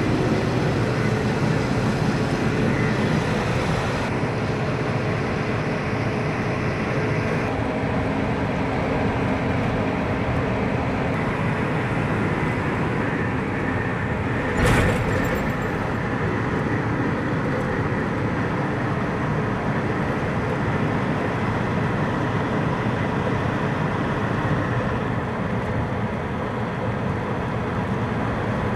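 Truck engine and road noise while driving, steady throughout, with a single sharp knock about halfway through.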